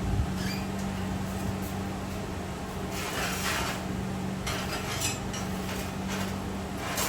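Metal clattering and scraping as steel pieces are handled, in a few short bursts, over a steady low hum that stops near the end.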